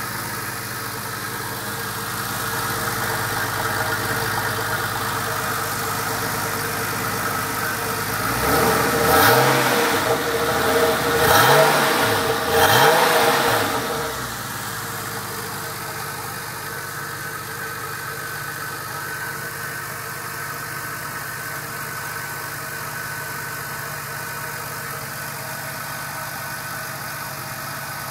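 1995 Porsche 993's air-cooled flat-six idling through newly fitted RSR mufflers, blipped three times in quick succession about a third of the way in, each rev rising and falling back before it settles to a steady idle again.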